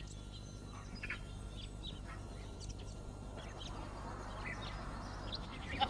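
Faint outdoor ambience with scattered brief bird chirps.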